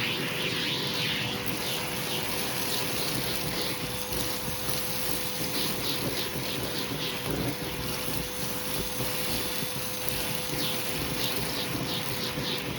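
Hoover vacuum cleaner running steadily with its hose tool drawn over a shag rug, sucking up carpet powder, with repeated short hissing strokes over a steady motor hum.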